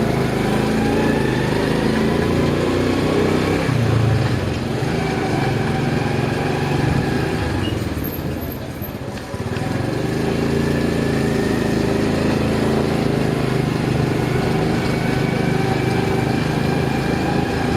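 Motorcycle engine running steadily while riding. The engine note eases off and drops about halfway through, then picks up again and rises slowly.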